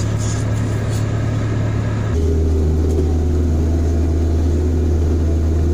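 Off-road vehicle engine running steadily at low revs. About two seconds in the sound changes abruptly to a deeper, slightly louder engine drone, an SUV climbing a muddy dirt slope.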